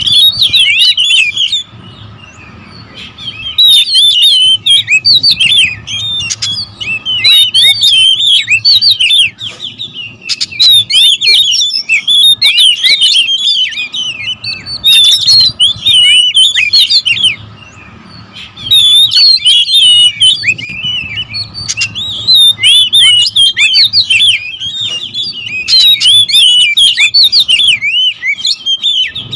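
Several oriental magpie-robins (kacer) calling and singing at once in an agitated territorial racket: fast, overlapping strings of high whistles and chirps, broken by brief lulls a few times.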